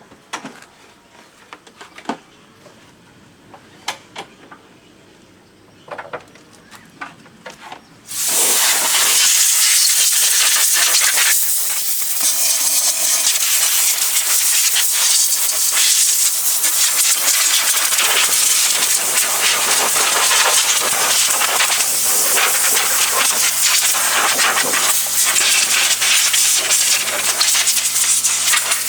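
A few faint clicks and knocks, then about eight seconds in a loud, steady hiss starts and keeps going. Later a low, steady motor hum joins it.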